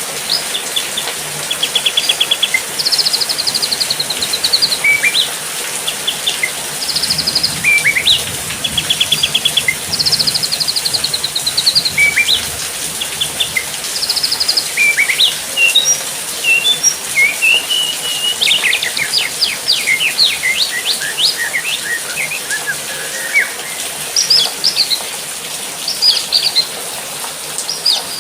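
Songbirds chirping and singing: rapid buzzy trills and short whistled chirps, repeated again and again, over a steady hiss.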